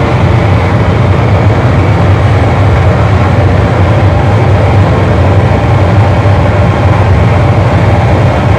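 Loud, unchanging wall of distorted electronic noise from a noise-music performance, with a heavy low rumble and no rhythm or breaks.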